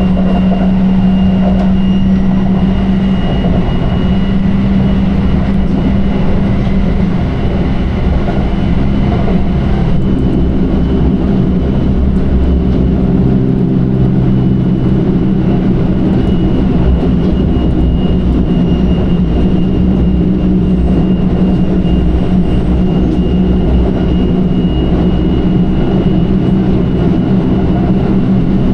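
Electric express train running at steady speed: a continuous rumble of wheels on the track with a steady motor hum.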